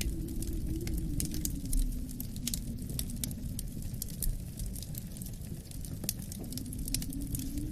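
Wood fire crackling with frequent sharp pops, over wind blowing with a low howl that slowly falls in pitch and rises slightly near the end.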